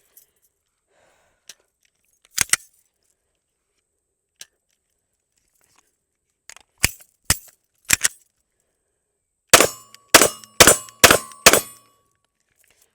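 SIG M18 9mm pistol fired in groups: a quick pair, then three shots, then a fast string of five with a ringing note under them, emptying the magazine.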